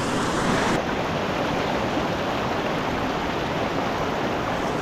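Rushing water of a mountain stream: a steady, even hiss.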